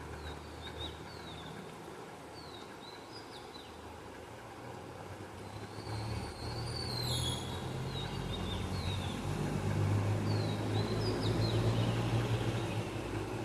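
Small birds chirping with short, quick calls throughout. A low engine rumble builds from about halfway and is loudest near the end.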